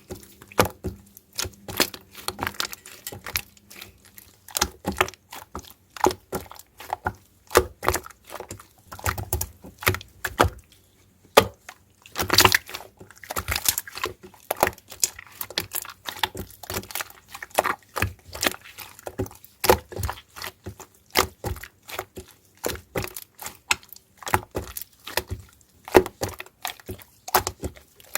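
Two-layer slime being squeezed, stretched and poked by hand, giving a dense, irregular run of sticky clicks and pops.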